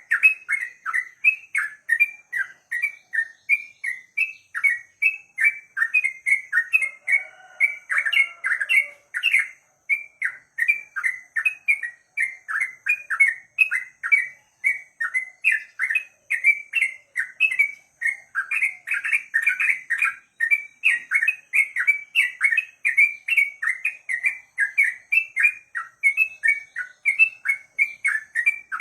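Yellow-vented bulbul (trucuk) singing a long unbroken run of short, repeated chirping notes, about three a second.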